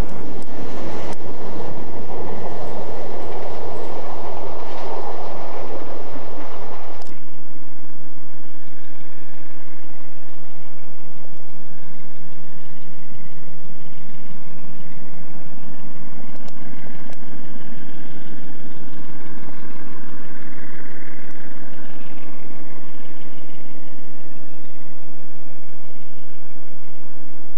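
Freight train wagons rolling past, with a few sharp clicks of wheels over rail joints. About seven seconds in the sound cuts abruptly to a much quieter, steady hum of a distant locomotive approaching.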